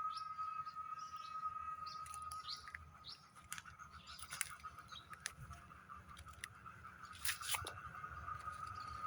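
Birds chirping in short, quick downward calls, mostly in the first three seconds, over a steady high whine. Scattered sharp clicks, the loudest about seven seconds in, and a low rumble.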